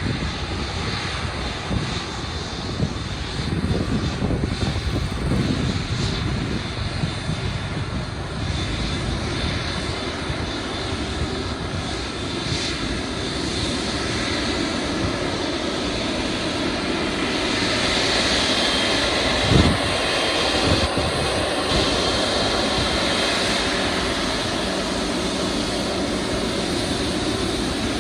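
Boeing 777 freighter's jet engines on landing, a continuous jet noise that grows louder with a brighter whine about two-thirds in. There is one short thump at about the same moment.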